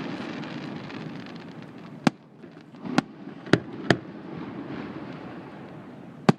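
Aerial fireworks exploding, about six sharp bangs at uneven intervals: one at the start, two near the middle, two close together just after, and one near the end. A steady low rumble of the display fills the gaps between them.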